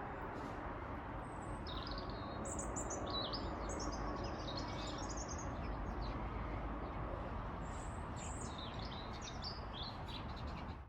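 Small birds chirping in quick high calls over a steady low background noise.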